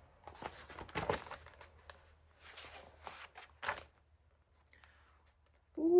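Paper rustling and crinkling in several short bursts over about three and a half seconds, as of a picture book's pages being handled and turned.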